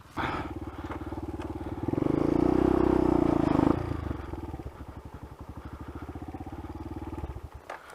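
Dirt bike engine running, revved up for about two seconds, then back to low revs before it cuts out suddenly near the end: the engine stalls.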